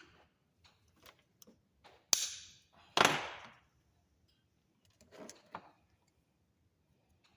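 Wire cutters snipping stripped copper electrical wire: two sharp snaps about a second apart, with light clicks of handling the wire and tool before and after.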